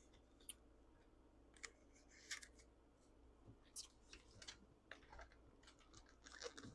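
Faint, scattered rustles and clicks of paper banknotes and small paper envelopes being handled and counted.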